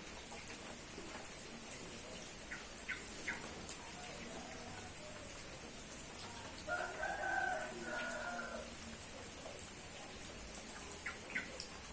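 Steady rain hiss with a rooster crowing once, a single call of about two seconds a little past halfway. A few short high chirps come before and near the end.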